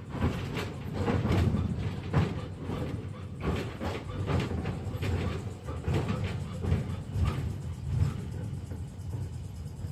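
KTM-5M3 tram running along the track: a steady low rumble with irregular knocks and clatter from the wheels on the rails, heard inside the car.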